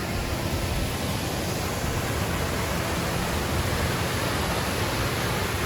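Steady rush of falling water from the Triberg waterfall cascades, an even hiss across all pitches.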